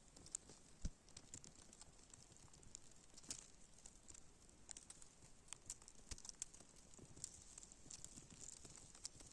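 Faint footsteps crunching in snow: irregular soft crunches and ticks over a light hiss.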